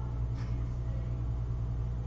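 Steady low electrical hum from the workbench equipment, with a faint small tick about half a second in.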